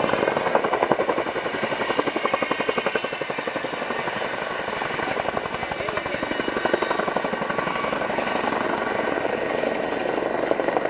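Boeing Chinook HC4 tandem-rotor helicopter in flight, its rotor blades beating out a fast, even chop that swells and eases slightly as it passes.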